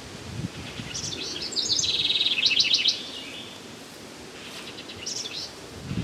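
A songbird singing: a phrase of quick high chirps running into a rapid trill about a second in, the loudest sound here, and a shorter phrase of chirps near the end.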